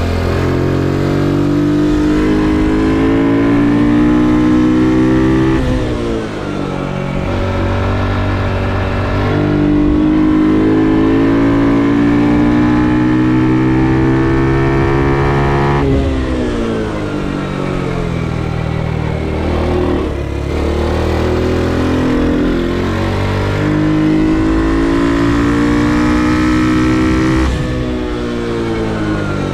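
Onboard sound of an Ohvale GP2 110 mini racing motorcycle's single-cylinder four-stroke engine at racing revs. Its pitch climbs through the gears, then falls back sharply three times as the rider shuts off and shifts down for corners.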